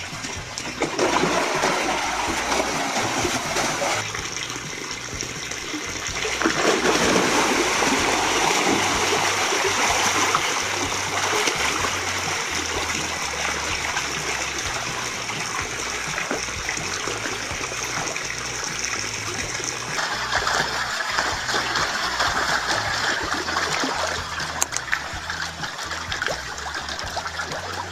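Running, splashing water: a steady rushing noise that changes abruptly a few times.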